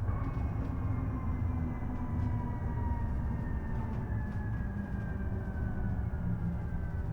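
Isuzu Erga EV electric bus running, its drive-motor whine slowly falling in pitch as the bus slows, over a steady low road rumble.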